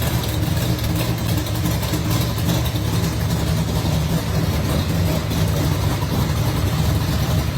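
Gasser drag car's engine running steadily at low revs, a deep idling rumble with no revving.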